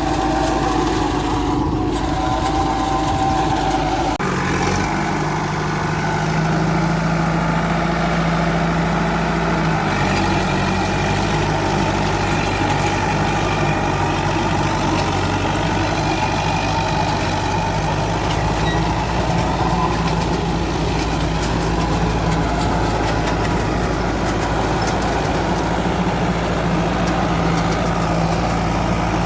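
Tractor diesel engine running steadily while working a Landforce super seeder, its note shifting about four seconds in and again near ten seconds.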